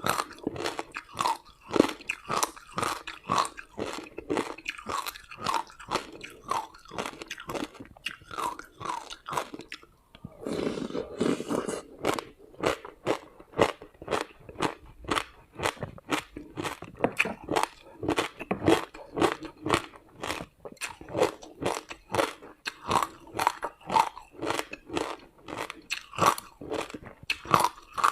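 Close-up crunching and chewing of ice frozen with passion fruit and sesame seeds, about three crisp crunches a second. About ten seconds in there is a brief stretch of softer grinding.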